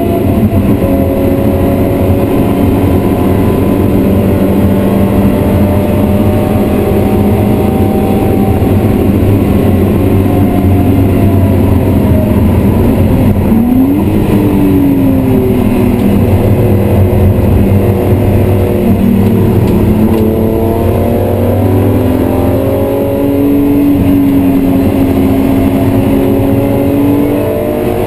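BMW E36 M3's 3-litre straight-six heard from inside the cabin, pulling hard at speed. About halfway through the engine note drops sharply and springs back up at a gear change, then sags and climbs steadily again.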